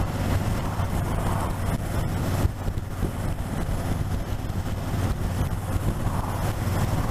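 Motorcycle engine running steadily under way, with wind rushing past.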